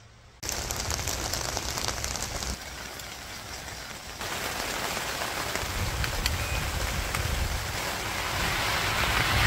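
Steady rain falling, beginning abruptly about half a second in, dropping in level around two and a half seconds and then growing louder again toward the end.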